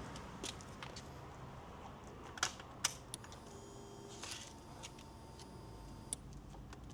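Faint scattered clicks and light taps over a low background rumble, with two sharper taps about two and a half and three seconds in.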